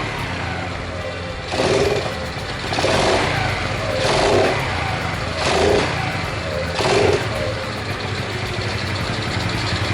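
Honda Chaly's small single-cylinder four-stroke engine running just after starting. The throttle is blipped about once every second and a half, giving short rises in revs, and after about seven seconds it settles to a steady idle.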